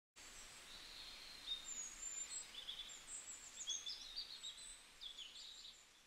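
Faint birds chirping and singing over quiet outdoor background noise, cutting off shortly before the end.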